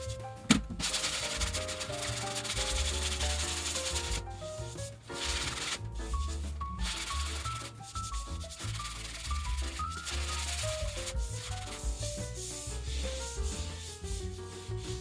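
Sandpaper rubbing over dried drywall patching compound, smoothing the mudded patch flush with the wall, in a continuous hiss broken by brief pauses. Background music with a melody and bass plays underneath.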